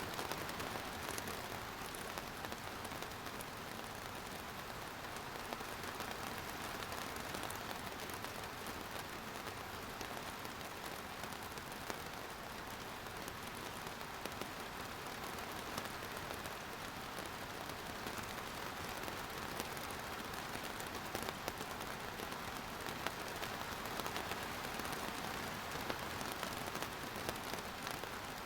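Steady rain falling, a continuous hiss with many small scattered drop ticks.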